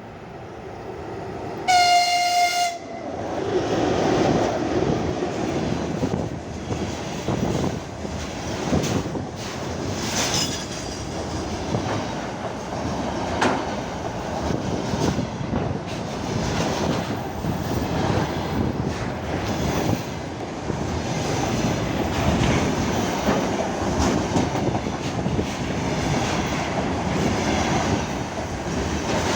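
VL10U electric locomotive with a freight train passing at speed. The locomotive sounds one short, high horn blast about two seconds in as it arrives. The locomotive and a long string of freight wagons then roll past with steady rumbling and wheels clattering over the rail joints.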